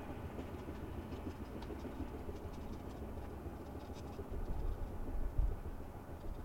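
Freight train of tank cars rolling, a steady low rumble with faint scattered clicks. Heavier, uneven low rumbling comes in over the last two seconds.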